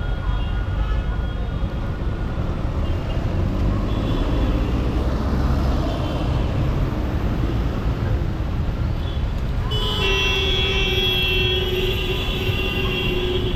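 Yamaha R15 V4 motorcycle riding through city traffic, a steady low rumble of engine and road noise. About ten seconds in, a vehicle horn sounds and is held for several seconds.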